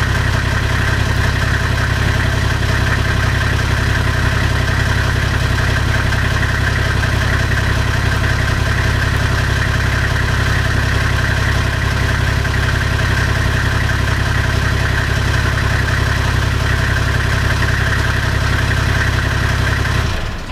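Toyota Land Cruiser 70 engine and exhaust idling steadily, with no revving, then stopping near the end.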